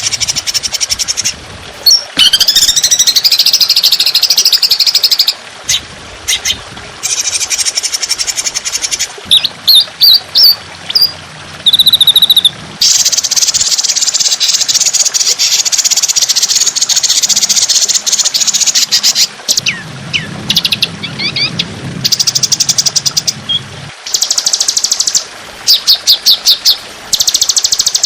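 Songbird song from a bird-tutor (masteran) recording: long bursts of very fast rattling trills and rapid-fire repeated notes, broken by quick falling whistles and short pauses. This is the dense 'tembakan' (shot) style used to teach caged songbirds.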